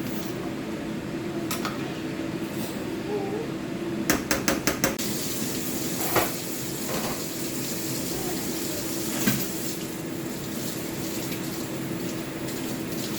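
A metal utensil knocking and clinking against a cooking pot: a quick run of about five taps about four seconds in, then single knocks, over a steady hum.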